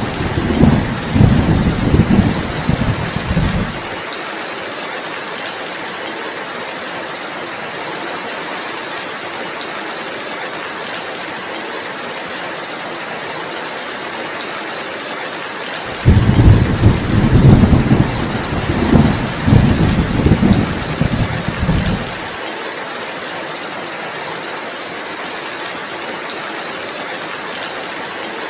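Steady heavy rain, with thunder rumbling low at the start, fading out about four seconds in, and again for about six seconds just past halfway.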